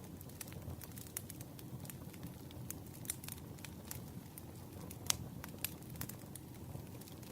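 Campfire crackling: a low steady rumble of burning wood with irregular sharp pops and snaps, the loudest about five seconds in.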